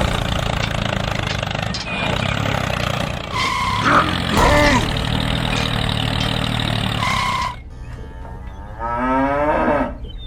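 A small motor runs steadily and cuts off about seven and a half seconds in. Near the end a cow moos once.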